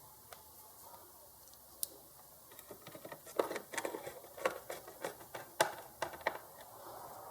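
A sliding-gate opener's control board being handled and fitted into the motor unit: an irregular run of small clicks and light knocks, about a dozen over some four seconds, the loudest about three and a half and five and a half seconds in.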